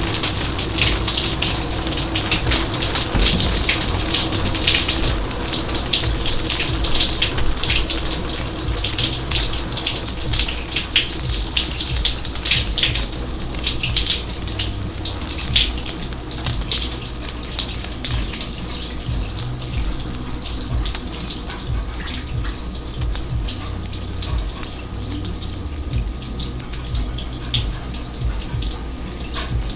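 Water pouring and splashing steadily in a kitchen sink that is overflowing. The splashing gets somewhat softer about halfway through.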